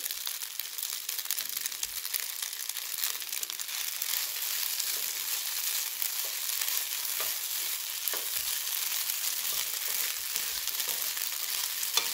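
Pasta, potatoes, carrots and freshly added pepper strips sizzling in a hot frying pan, a steady hiss, while a wooden spoon stirs them with faint scattered ticks and scrapes.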